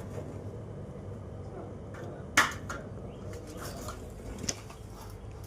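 Low, steady hum of a refrigerator running, with a sharp click about two seconds in and a smaller one later.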